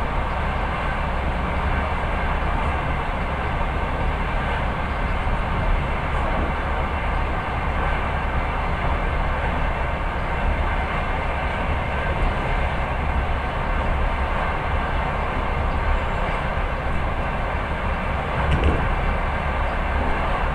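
Passenger train running at speed, heard from inside the carriage: a steady rumble of wheels on the rails with a deep low drone. There is one brief louder knock near the end.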